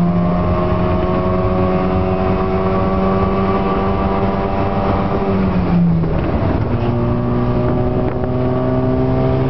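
Subaru 360 pickup's air-cooled two-stroke two-cylinder engine pulling hard under acceleration, its note rising slowly. About six seconds in the pitch drops with an upshift, then climbs again from lower revs. The exhaust is loud through a hole in the muffler.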